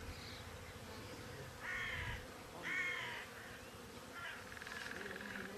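Crow cawing: two harsh caws about a second apart, then a rasping call near the end.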